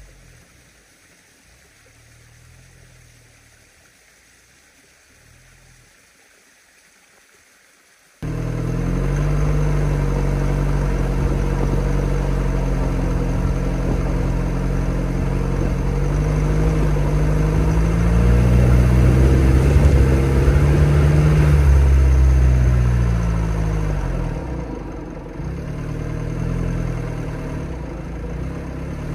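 Mitsubishi Delica D:5's 2.2-litre diesel engine under load on a rough forest track. It is faint for the first eight seconds, then suddenly close and loud. Its note rises and falls as it works over the rocks, strongest about two-thirds of the way in, then eases off.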